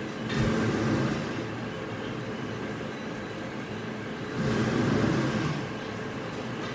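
Machinery running steadily, with two louder surges of about a second each, one near the start and one about four seconds later.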